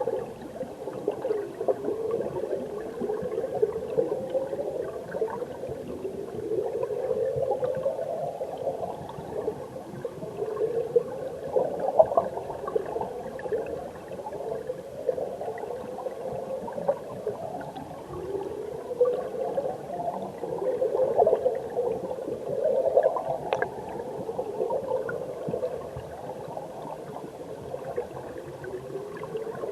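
Mountain stream water gurgling, heard from underwater: a muffled, steady churn with swells that rise in pitch every few seconds.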